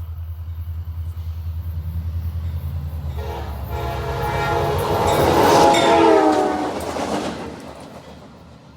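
CSX diesel locomotives running light at speed: a pulsing low engine rumble, then the air horn sounding from about three seconds in, swelling to its loudest, dropping slightly in pitch as it passes and fading away near the end.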